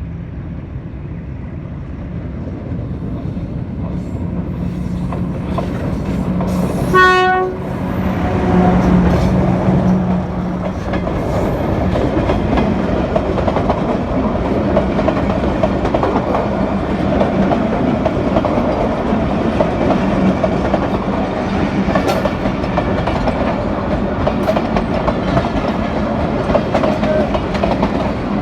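Train drawing near, its engine drone growing steadily louder, with a short horn blast about seven seconds in, followed by the steady rumble and clatter of the train on the track.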